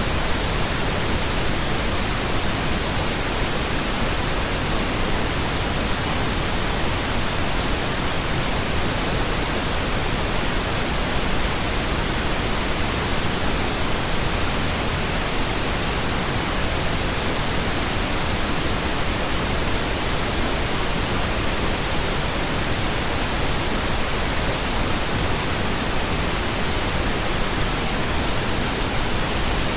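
Pink noise: a steady, unchanging hiss.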